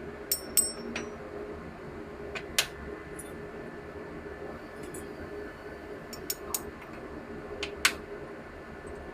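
Scattered sharp metallic clinks and taps, some ringing briefly, over a steady machinery hum with a faint high whine.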